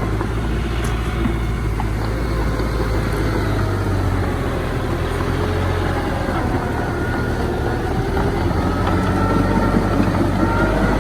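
Heavy diesel engine of earthmoving machinery running steadily, with a thin whine that drifts in pitch above the low engine hum.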